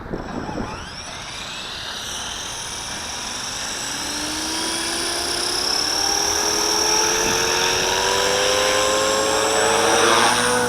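Walkera V450D01 electric RC helicopter spooling up: the motor whine and rotor noise rise steadily in pitch and loudness, then level off at flying speed near the end.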